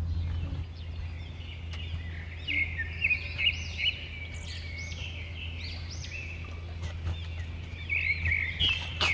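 Birds calling in clusters of short, arching chirps, busiest about two to four seconds in and again near the end, over a steady low hum.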